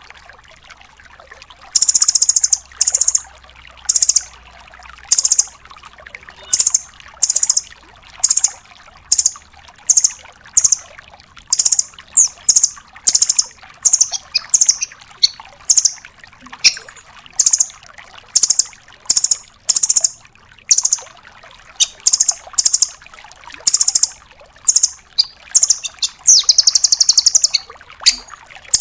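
Velvet-fronted nuthatch (rambatan doraemon) calling: short, loud, very high bursts of rapid trilled notes, repeated about once or twice a second after a brief quiet start, with a longer rattling trill near the end.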